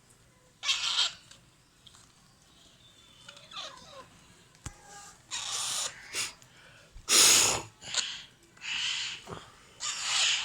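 Alexandrine parakeet chicks giving raspy, hissing begging calls while being fed: a string of short rasps, the loudest about seven seconds in, with a few faint thin calls between them.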